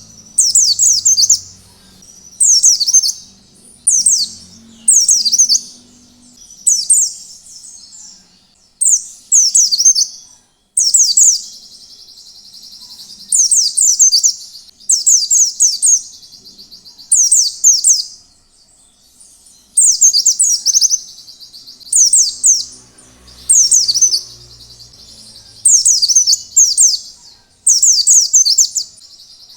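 White-eye (pleci) singing: a string of short, high, rapid twittering song phrases about once a second, with a longer buzzy trill running under the phrases near the middle.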